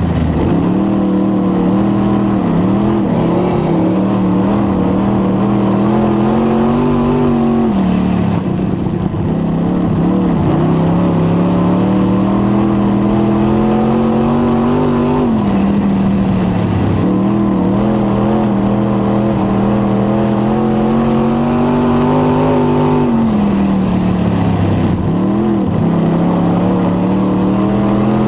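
Dirt late model race car's V8 engine running hard, the revs climbing steadily for about seven seconds and then falling sharply as the driver lifts, over and over, lap after lap.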